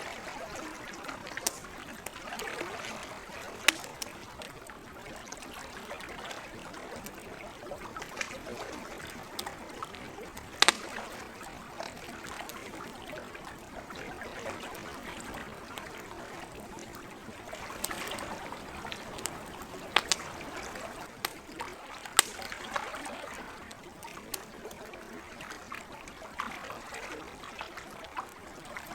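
Campfire crackling with sharp wood pops every few seconds, over the steady trickle and lapping of lake water at the shore.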